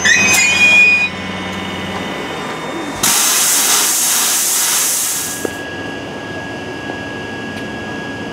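London Underground 1972 Stock train coming to a stand: a brief brake squeal, then a loud burst of compressed-air hiss about three seconds in that dies away after a couple of seconds, typical of the air brakes venting as the train stops, followed by a steady high whine.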